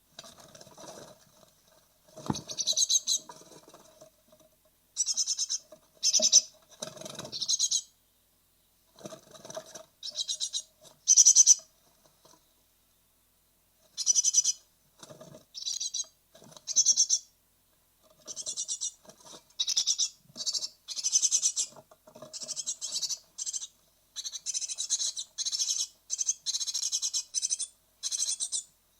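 Great tit nestlings in a nest box, ready to fledge, calling in repeated high-pitched bursts that come thicker and closer together in the second half, with scratching and rustling of the young moving about in the box.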